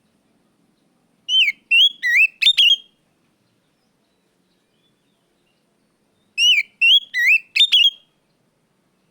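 Oriental magpie-robin (kacer) song: two near-identical phrases about five seconds apart. Each is a quick run of four or five loud, down-slurred whistled notes ending in sharp, clicky notes.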